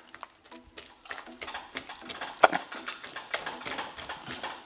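Spatula working wet slime full of small beads in a glass bowl, giving a run of irregular wet clicks and squelches with one sharper click about two and a half seconds in.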